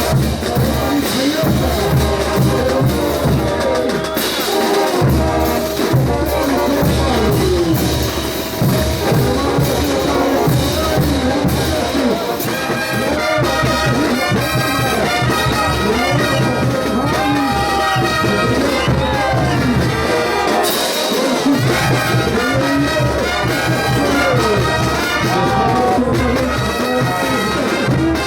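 Bolivian brass band playing ch'uta dance music, trumpets and trombones carrying the tune over a steady low end.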